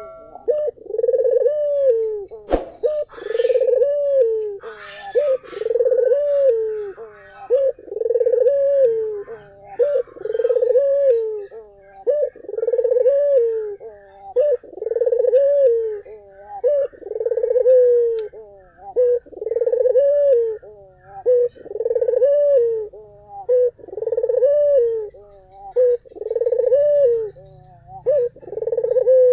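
Barbary dove (puter) cooing steadily, one low coo about every two seconds, over and over. A single sharp click comes about two and a half seconds in.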